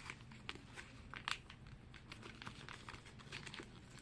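Faint crinkling of a small plastic blind bag being torn open and handled, with scattered light clicks, the strongest about a second in.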